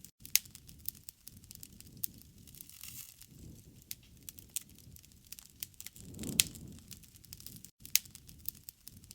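Wood fire crackling, with irregular sharp pops and snaps over a low, soft rumble of flame that swells briefly about six seconds in, along with the loudest pop.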